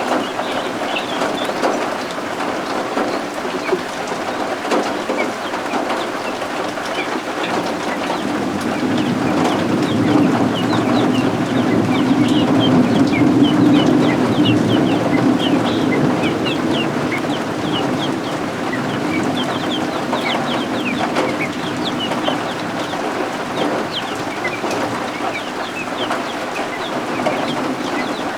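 Baby guinea fowl keets peeping: many short, high, falling chirps, over steady rain. A low rumble of thunder swells through the middle and fades.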